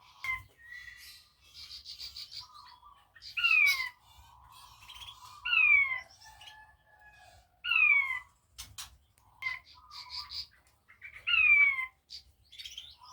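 King quail (puyuh batu) calling actively: four loud, sharply falling whistled calls about two seconds apart, with softer chirps and twitters between them.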